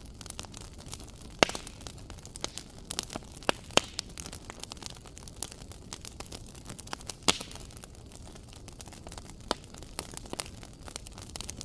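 Wood fire burning in a fireplace: a steady low hiss with frequent irregular crackles and a few sharp pops, the loudest about a second and a half in and again near 4 and 7 seconds.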